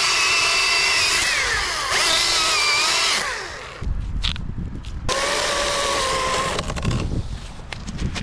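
Chainsaw cutting into a fir top, its engine pitch dipping and recovering under load for about three seconds. After a short break it runs again, more steadily and at a lower pitch, for about a second and a half.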